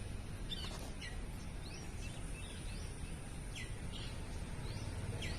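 Small birds chirping repeatedly, short sharp calls every half second or so, over a steady low background rumble of outdoor noise.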